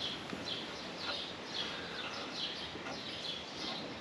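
Small birds chirping in a steady string of short, high chirps, about two a second, over faint background hiss.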